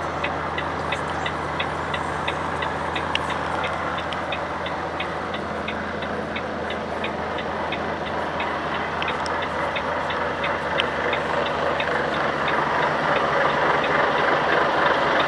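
Volvo FH460's 13-litre six-cylinder diesel engine idling steadily, with a regular light ticking about four times a second that fades out around the middle. The engine grows a little louder toward the end.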